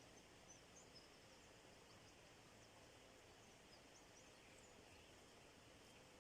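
Near silence with faint, distant small-bird chirps: a scattering of short high calls over a steady background hiss.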